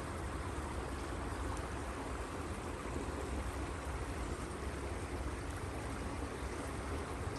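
Creek water rushing steadily through a large culvert as a beaver-dammed pond drains, with a low rumble underneath.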